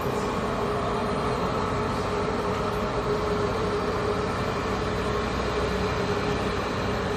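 Steady ramp noise of an Airbus A320neo being pushed back, with a constant mid-pitched whine over an even rumble.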